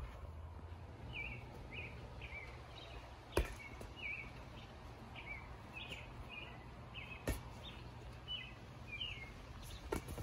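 A bird chirping over and over, one short chirp roughly every two-thirds of a second, over a low steady background rumble. A few sharp thumps stand out, the loudest about a third of the way in and another about two-thirds in.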